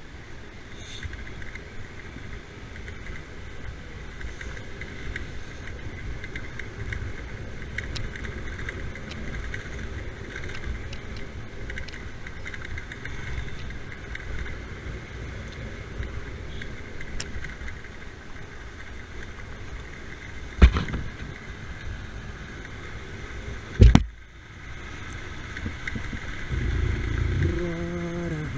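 Riding noise from a motorbike on the move: steady engine and wind rumble, with two sharp knocks about three seconds apart two-thirds of the way through. Near the end a voice begins to hum.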